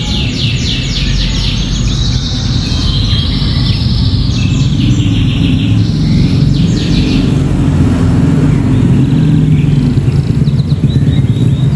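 Canary singing rapid trills of quick repeated notes, densest in the first half and thinning out toward the end, over a steady low rumble.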